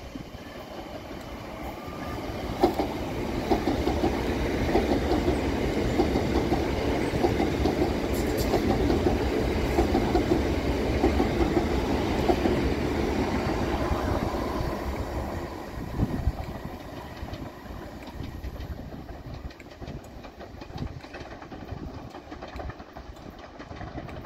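Electric multiple-unit train passing close by, its wheels clattering rapidly over rail joints and points. The clatter builds about two seconds in, holds for around twelve seconds, then fades, with one sharp knock shortly after.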